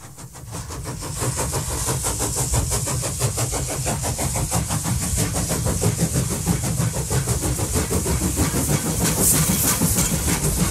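Steam-hauled heritage train under way, heard from an open carriage window: a steady noisy rush with fast rattling from the carriages and wheels. It fades in about a second in.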